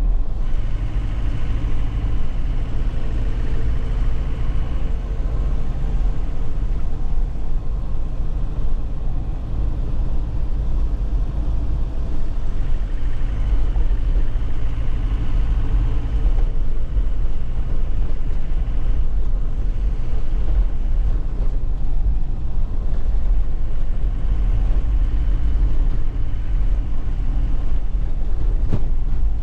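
2001 Nissan Cabstar light truck on the move: the engine runs steadily under a constant low rumble of road and tyre noise.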